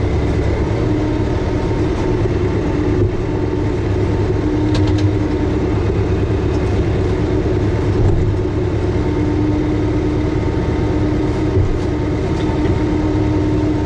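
Massey Ferguson 5400 tractor's diesel engine running steadily at a low speed, with a few brief metallic clanks.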